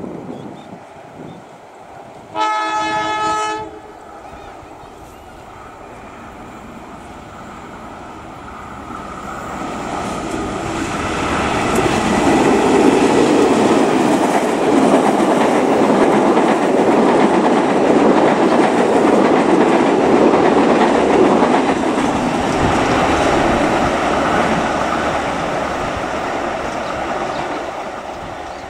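Diesel locomotive hauling passenger coaches sounds one horn blast lasting about a second. The train then passes close by: engine and wheel noise builds up, stays loud for about ten seconds, and fades as the coaches go past.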